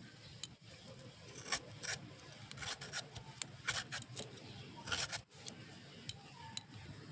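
A knife cutting into a firm unripe mango, in a run of short scraping strokes that come in irregular clusters.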